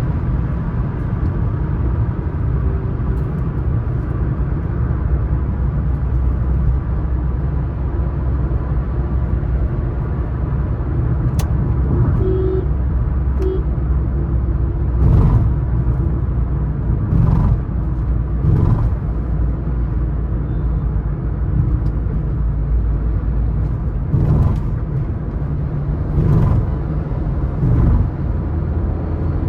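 Suzuki S-Cross 1.3 DDiS diesel car cruising at highway speed, a steady low engine and road drone. In the second half several short swells of noise come through, each under a second long.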